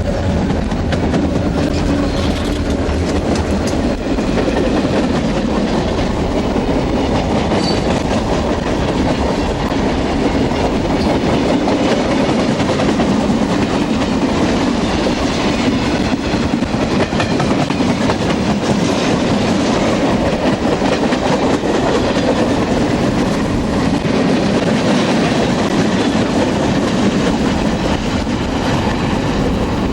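Canadian Pacific freight train's cars rolling past at close range, with a steady rumble and rattle of wheels on the rails.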